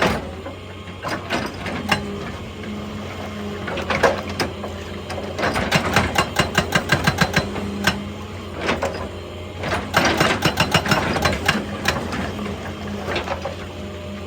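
Excavator-mounted hydraulic breaker hammering rock in bursts of rapid blows, several a second, over the steady running of the excavator's engine.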